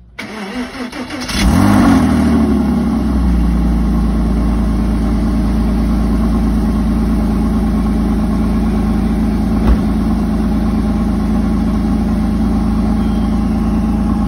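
Porsche Boxster's flat-six engine cranking, catching about a second in with a brief flare of revs, then settling into a steady idle. A single short click about ten seconds in.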